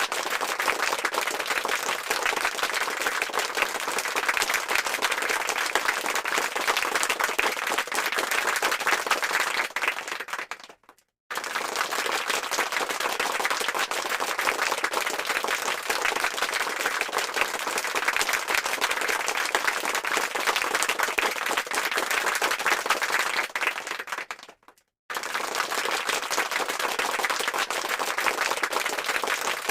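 Crowd applause: many hands clapping densely and evenly. It fades out and stops briefly about eleven seconds in and again near twenty-five seconds, each time starting again suddenly at full strength.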